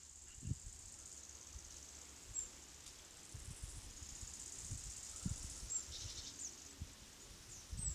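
Faint outdoor ambience of insects chirring steadily in high-pitched grass. A few short, high chirps come near the end, and there are occasional soft low thuds.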